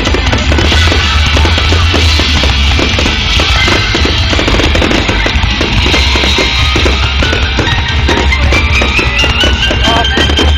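A loud, continuous fireworks barrage through a phone's microphone, many bursts and crackles in quick succession over a deep rumble, with music playing alongside.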